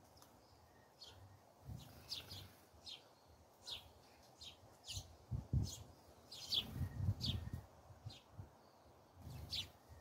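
Small songbirds chirping outdoors: a dozen or so short, quick chirps at irregular intervals, each dropping in pitch. Low muffled bumps and rumbles come in about halfway through and again near the end, and these are louder than the chirps.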